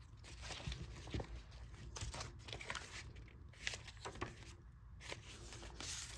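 Paper and card rustling and crinkling as the pages and journaling cards of a handmade junk journal are handled and flipped over, in irregular short rustles with a brief louder swish near the end.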